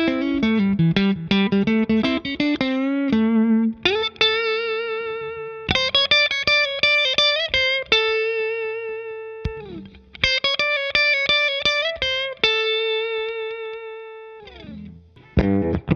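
Electric guitar played through a Ross Compressor pedal into a Fender '65 Deluxe Reverb reissue amp. It plays a single-note lead line with bends and vibrato: quick notes at first, then long held notes that sustain and fade slowly.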